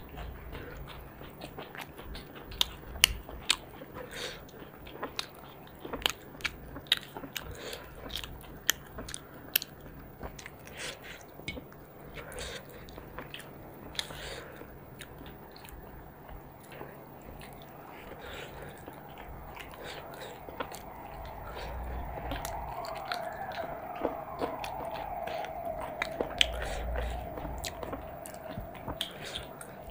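Close-miked eating: two people chewing mouthfuls of chicken and rice, eaten by hand, with frequent sharp, wet mouth clicks and lip smacks. In the later part a steady background tone comes in, rising and falling in pitch once.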